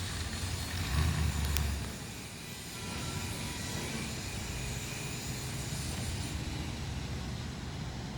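1957 Ford Thunderbird E-code's 312 V8 with twin four-barrel carburettors running steadily, swelling louder for about a second shortly after the start, with one sharp click in the middle of that swell.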